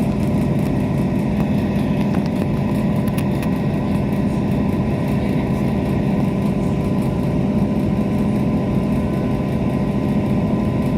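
Steady hum of a diesel passenger train underway, heard inside the carriage: engine drone and wheel rumble, with a few constant tones over it.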